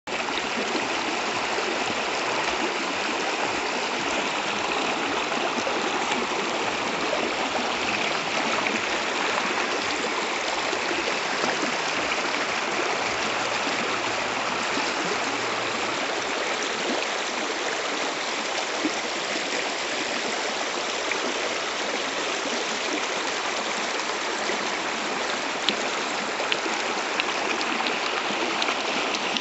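Running water, a steady unbroken rush.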